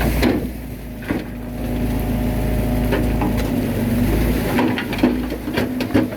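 Bulldozer's diesel engine running steadily, its deep rumble easing about two-thirds through, with scattered clanks and knocks from the tracks and the blade working soil.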